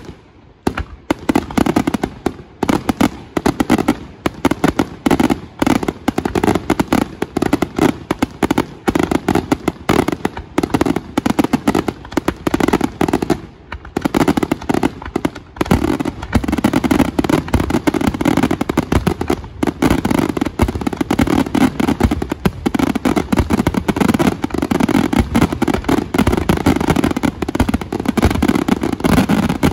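Aerial fireworks display: a dense barrage of shells bursting in rapid bangs and crackle, almost without a break. The bursts thin out briefly about halfway through, then pack tighter and louder in the second half.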